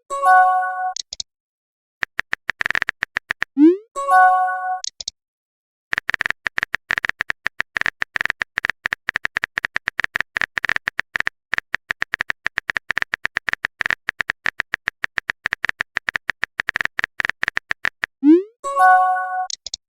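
Rapid runs of phone-keyboard typing clicks, broken three times by a short rising swoop and a brief chime: a messenger's message-sent or new-message notification sound.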